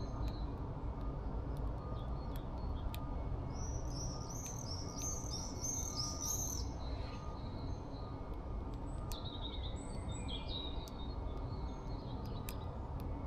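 Small birds singing and chirping: a song of about eight quick, repeated high notes runs for about three seconds starting near four seconds in, followed by a few shorter chirps around nine to eleven seconds. A steady low background rumble runs underneath.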